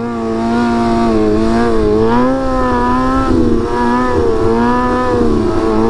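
Motorcycle engine running at fairly steady revs, its pitch wavering gently up and down.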